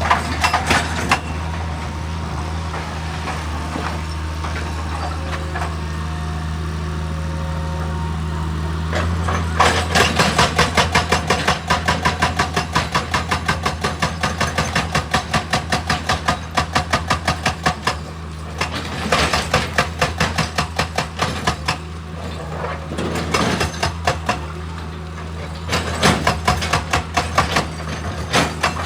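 Heavy diesel machinery engine running steadily. From about a third of the way in, bursts of rapid, evenly spaced hammering strikes, several a second, start and stop over it.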